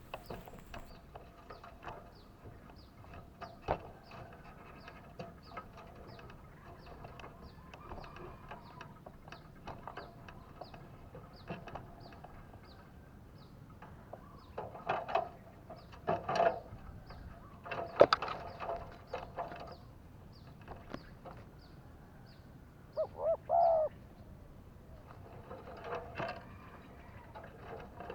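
Spotted doves cooing in several separate phrases, the loudest a bit past the middle, over a faint, even run of high chirps about twice a second.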